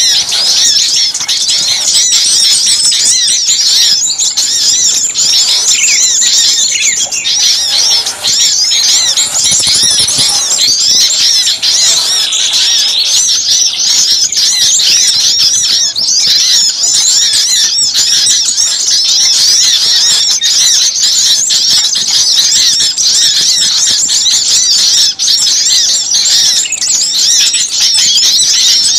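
Dense, noisy chorus of many small songbirds chirping and calling at once, rapid high-pitched notes overlapping without a break: a bird-lure recording played to draw small birds in.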